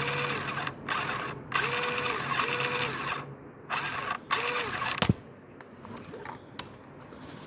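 Small 1:24 scale RC crawler's electric motor and central gearbox running forward in several short on-off bursts, with the weird gear noise that only shows in forward drive, a fault the owner puts down to the central gearbox assembly. It stops with a click about five seconds in.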